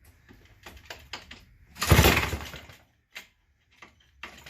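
McCulloch Model 73 two-stroke chainsaw being pull-started: one sharp pull of the starter rope about two seconds in turns the engine over for about a second without it catching, with small clicks of handling before and after.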